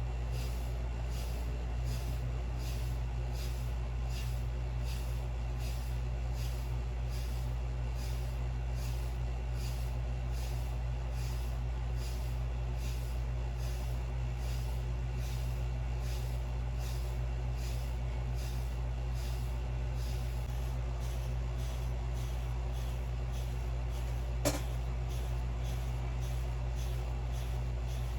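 Hairbrush bristles swishing through short 360-waves hair in steady strokes, about two a second, over a steady low hum. One sharp click near the end.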